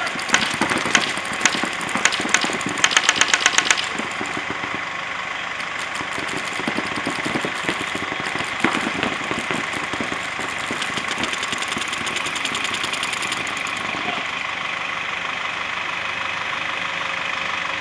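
Paintball markers firing in bursts over a steady hum. The fastest string, about nine or ten shots a second, comes about three seconds in.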